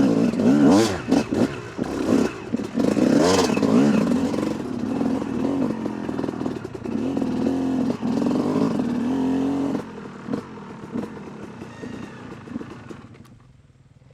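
Dirt bike engine revving up and down under load, its pitch rising and falling repeatedly, then dropping off and fading about ten seconds in.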